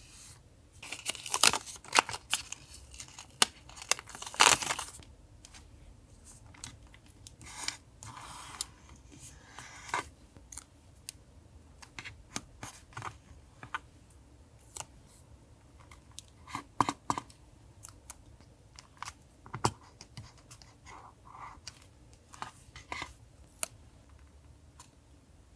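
Close-up handling of paper and stickers for a journal collage: a busy run of crinkles, rustles and sharp clicks in the first five seconds, then scattered small taps and crinkles.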